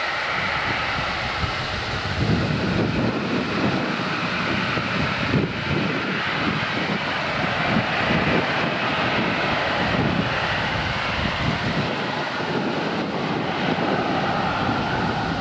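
Boeing 737-800's CFM56-7B turbofan engines at takeoff thrust: a steady broad rumble that grows stronger about two seconds in, with a faint whine drifting in pitch above it.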